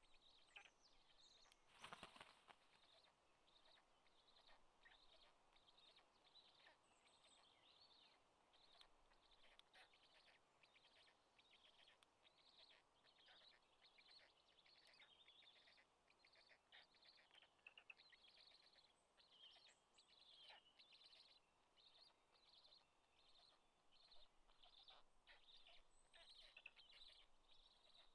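Faint bird chirping: many short, high notes repeating throughout, with a brief rustle about two seconds in.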